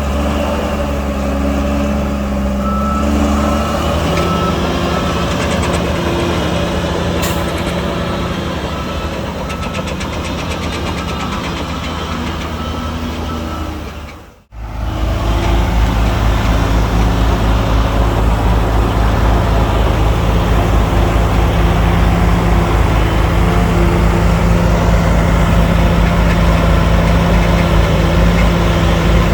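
Heavy diesel engine of earthmoving equipment running steadily. The sound drops out for a moment about halfway through, then comes back louder with an even, low throb.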